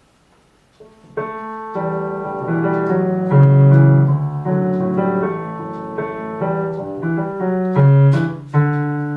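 Piano playing a short melody in a minor key over bass chords, starting about a second in; sad in character.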